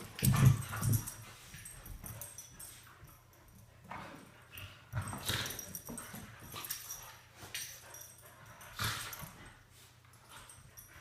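Dogs playing, with scattered short dog sounds and scuffles, loudest in the first second and again briefly around five and nine seconds in.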